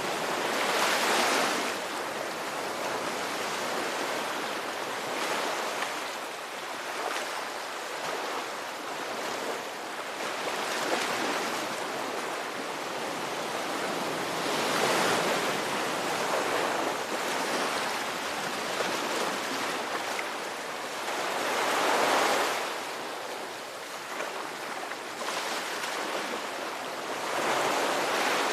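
Ocean surf: waves breaking and washing in as a steady rush, with a few louder surges that build and fade, one about a second in, two more in the middle stretch and one near the end.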